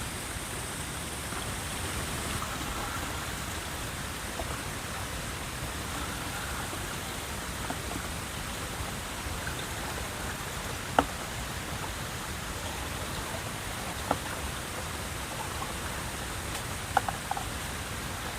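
Steady hiss of falling water, with three short sharp knocks, the loudest about eleven seconds in.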